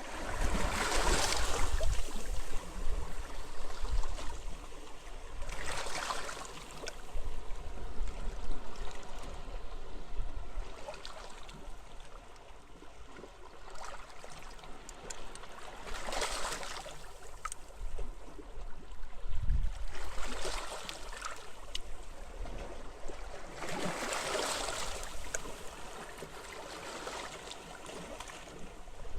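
Sea waves washing onto a beach, swelling into a hissing surge four times, about a second, six seconds, sixteen seconds and twenty-four seconds in, over a low wind rumble.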